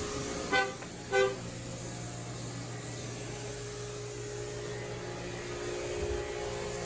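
Two short car horn toots about half a second apart, over the steady hum of a vehicle running.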